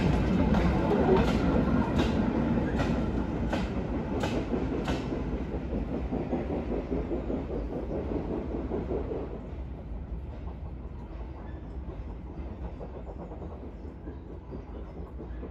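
Goods wagons and a brake van passing on jointed track, their wheels clicking over the rail joints in a regular clickety-clack about every 0.7 s. The clicks fade out about five seconds in, and the train's low rumble then dies away as it moves off.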